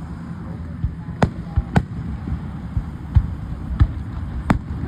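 Aerial fireworks shells bursting, about six sharp bangs at irregular intervals.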